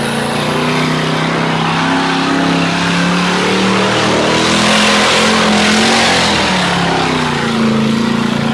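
Twin-turbo LS V8 mega mud truck engine revving hard, its pitch rising and falling as the driver works the throttle, with a louder rushing noise for about two seconds around the middle.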